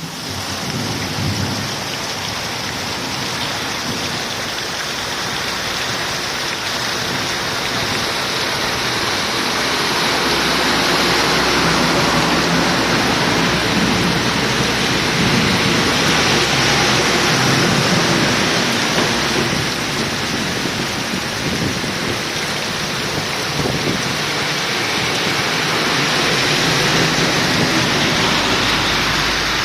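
Heavy rain pouring down steadily, growing louder for a while in the middle and again near the end.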